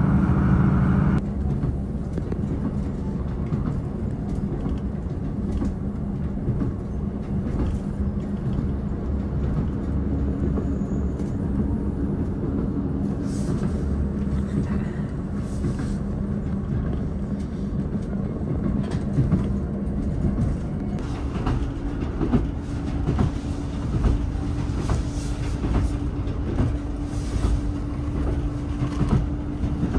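A passenger train running along the line: a steady low rumble with wheels clicking over the rail joints. A steady drone underneath shifts higher about two-thirds of the way through, and the clicks grow more frequent toward the end; a louder passage cuts off about a second in.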